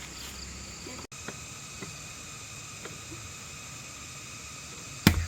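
Steady insect chorus, several high unbroken tones, with a few faint scattered clicks and one sharp loud knock near the end.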